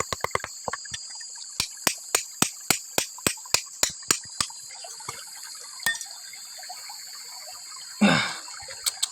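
A hammer striking rock in a run of sharp taps, about three a second, that thin out after a few seconds. A short noisy rush comes near the end. A steady high drone of insects runs underneath.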